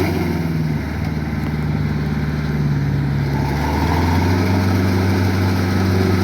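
Rice-field tractor engine running steadily, its note shifting slightly about three seconds in.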